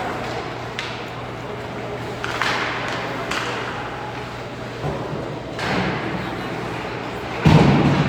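Ice hockey game sounds in an arena: scattered sharp clacks and scrapes over spectator voices, then a loud, low thud near the end.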